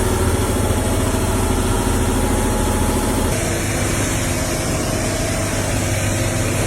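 An engine running steadily, with a constant hum under a wide rushing noise. The sound shifts abruptly about three seconds in, then runs on steadily.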